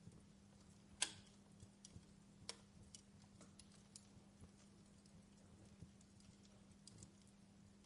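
Faint fireplace crackling: scattered, irregular sharp pops and snaps, the loudest about a second in, over a faint steady hum.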